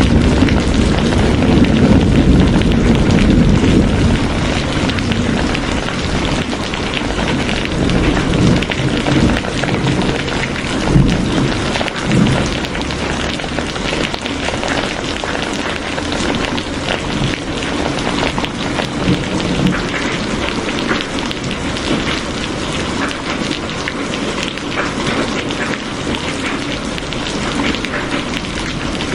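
Steady heavy rain, a dense pattering hiss of drops hitting surfaces. A low rumble underneath is strongest during the first few seconds, then eases, with a brief swell about eleven seconds in.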